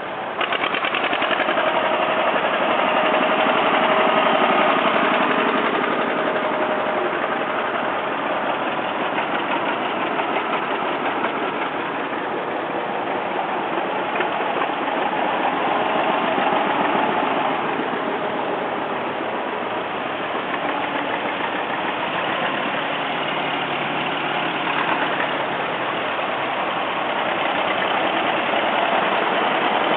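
Vintage farm tractor engines running. The sound swells and eases a couple of times.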